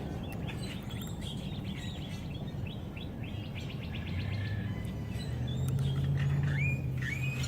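Birds chirping and calling in many short, quick notes, with a low steady hum underneath that grows stronger about halfway through.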